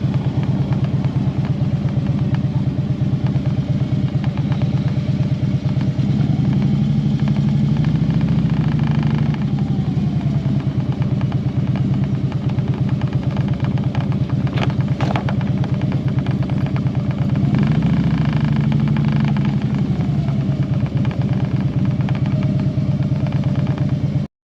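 Motorcycle engine running steadily on the move, its pitch easing up and down a little a few times. The sound cuts off suddenly near the end.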